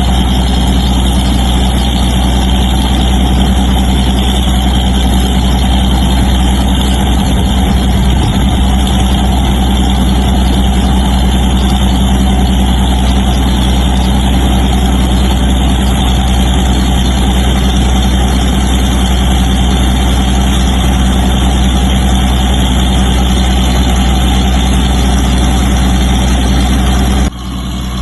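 Rice mill machinery running steadily: a loud, even mechanical drone with a strong low hum. It drops suddenly in level near the end.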